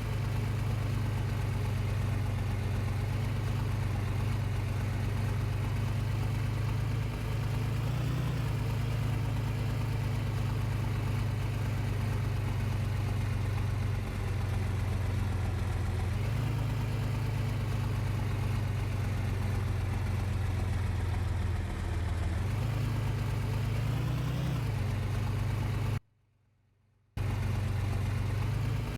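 Vehicle engine running with a steady low drone, its pitch rising slightly every several seconds; the sound cuts out for about a second near the end.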